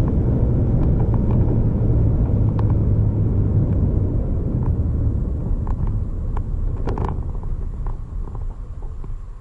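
Vehicle on the move, a steady low rumble with scattered light clicks and rattles, fading away over the last few seconds.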